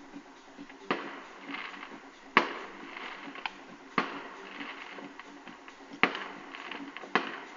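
Fireworks exploding in the distance: about five sharp bangs a second or two apart, with fainter crackling between them.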